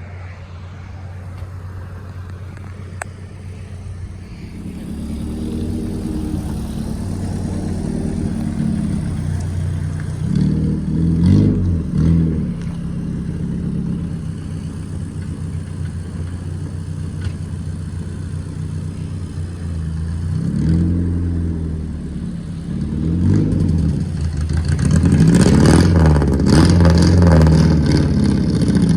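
Straight-piped Chevrolet Cavalier four-cylinder race car engine running and revved several times, loudest near the end.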